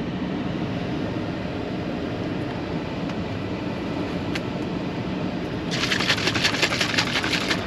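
Steady hum of an idling pickup truck's engine and cabin fan. Near the end, a rapid crackling runs for about two seconds.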